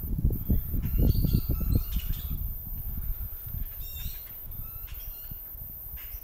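Birds squawking and chirping in clusters of short calls, about a second in and again around four to five seconds in, with wind buffeting the microphone during the first couple of seconds.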